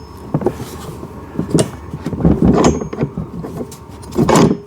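Parts of a kids' ride-on car's steering assembly knocking and rattling as it is handled and fitted into the plastic frame, with several irregular clunks, two of them louder.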